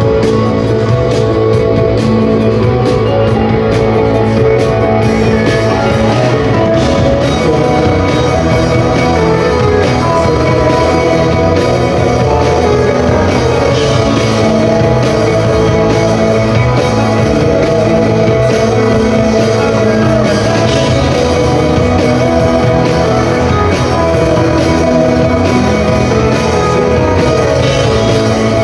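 Rock band playing live, loud and steady: electric guitar over bass and a drum kit, with quick cymbal ticks in the first few seconds.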